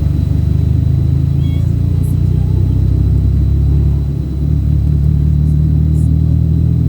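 Steady low rumble of a moving road vehicle, engine and road noise heard while riding in it, with a short dip about four seconds in.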